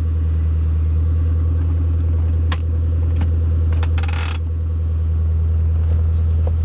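2008 Ford Mustang GT California Special's 4.6-litre V8 idling steadily, with a couple of sharp clicks and a short rattle about four seconds in.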